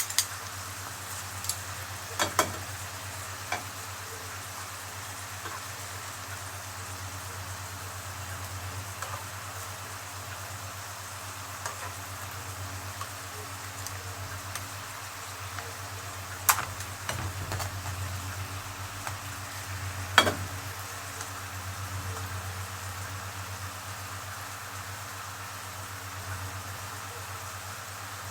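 Seafood frying in oil in a pan with a steady sizzle while it is stirred, and a few sharp knocks of the stirring utensil against the pan.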